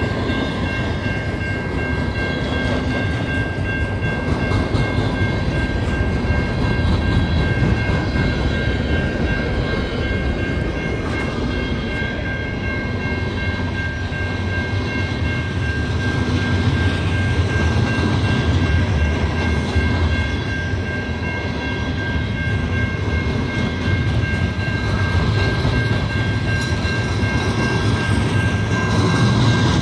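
CN 306's railcars rolling past at close range: a steady, dense rumble of wheels on rail, with a steady high-pitched tone running over it.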